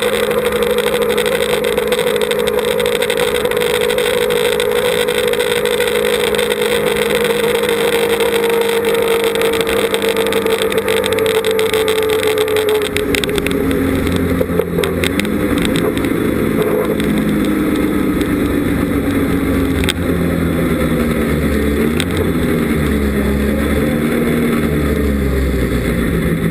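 Open-cockpit sports car's engine heard from the driver's seat, cruising with a steady pitch that slowly falls, then about halfway through dropping to a lower, uneven note as the car slows. Wind noise from the open cockpit runs under it.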